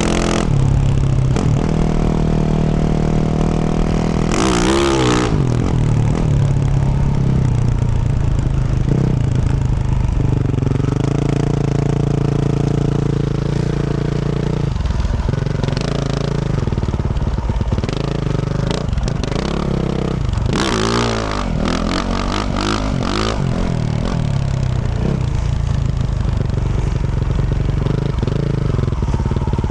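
2024 Yamaha YZ450F single-cylinder four-stroke engine with a Yoshimura RS-12 exhaust, riding and revving up and down through the throttle. It climbs sharply in pitch about five seconds in and again around twenty seconds in. Knocks and rattles from the bike mix with the engine.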